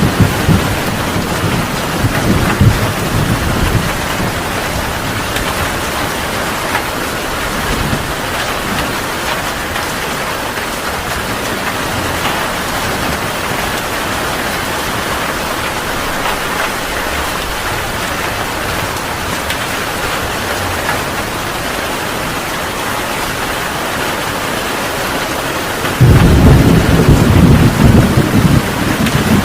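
Heavy rain falling steadily, with thunder rumbling in the first few seconds. Near the end a loud clap of thunder comes in suddenly and rumbles on.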